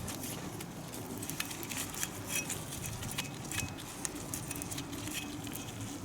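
Scattered light clicks and clinks, as of hand tools and metal parts being handled, over a steady low hum.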